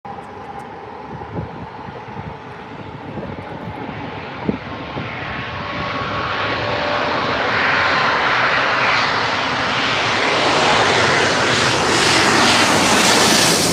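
Airplane engine noise during a landing approach, a steady roar that grows louder as the plane nears, loudest near the end.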